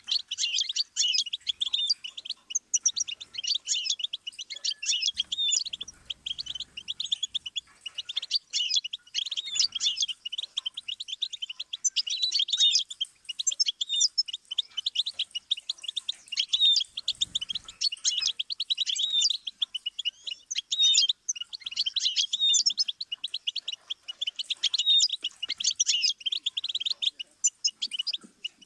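Goldfinch singing a long, fast twittering song of rapid chirps and trills, broken only by brief pauses.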